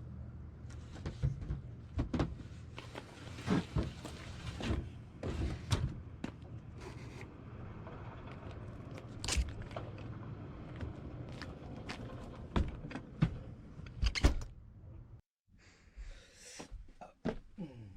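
Repeated knocks and clunks over a steady low hum. The hum cuts off abruptly about fifteen seconds in, and scattered knocks follow.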